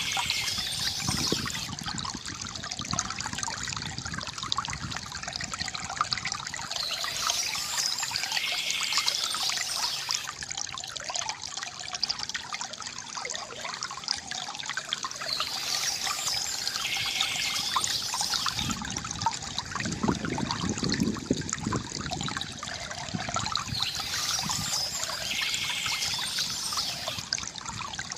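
River water gurgling and trickling steadily. A high chirping bird comes in briefly about every eight seconds.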